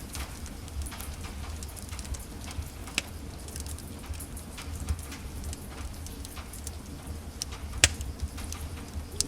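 Wood fire in a fireplace crackling: irregular sharp pops and snaps over a low steady rumble of burning, with one louder pop a little before the end.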